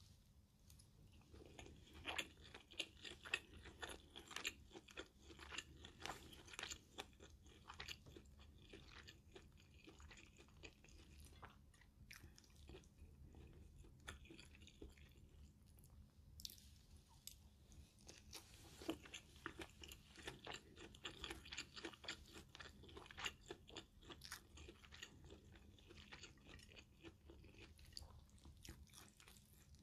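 Close-up chewing of a mouthful of stir-fried minced pork with Thai basil and rice, quiet, with many small wet mouth clicks. It is busiest in two spells: the first few seconds and again about twenty seconds in.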